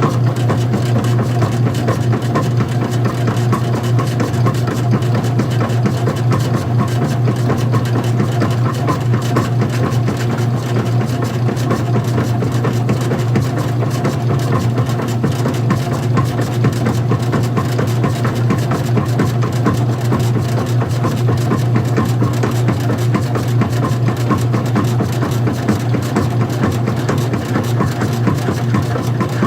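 Old-style front-loading washing machine running: a loud, steady motor hum with a fast, even mechanical rattle over it, unchanging throughout.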